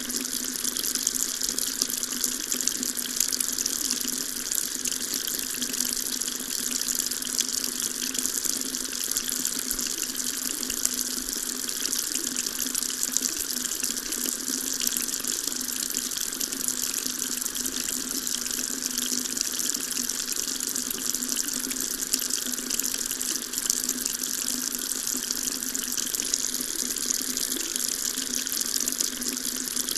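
Water tap running steadily into a sink, a continuous splashing hiss with an even hum beneath it.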